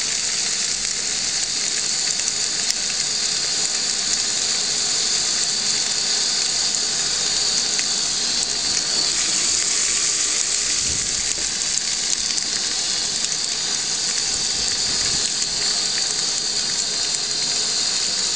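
Garlic and green chilli paste sizzling in hot oil in an open aluminium pressure cooker: a steady, even hiss that holds at one level throughout, with a few faint clicks.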